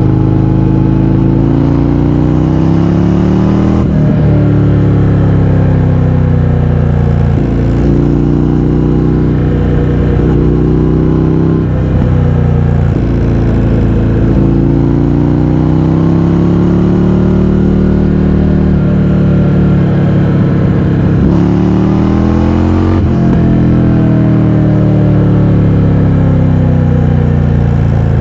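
Indian FTR 1200 V-twin engine through an Akrapovič exhaust with the baffles removed, ridden under way. The pitch climbs and drops repeatedly, broken by several gear changes, with one sharp rev rise about three-quarters of the way through.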